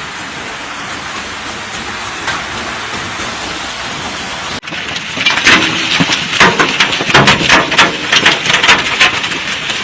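Heavy hail falling: a steady, even roar for the first few seconds, then, from a second recording, loud irregular clatter of hailstones striking hard surfaces in quick succession.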